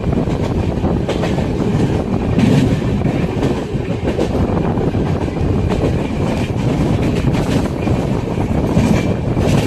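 Train running on the track: a steady heavy rumble with the clicks of wheels passing over rail joints.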